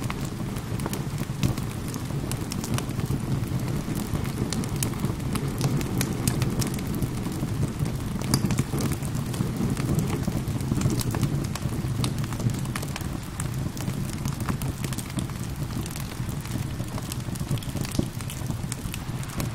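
Wood fire crackling with many scattered sharp pops over a steady low rumble, mixed with steady rain.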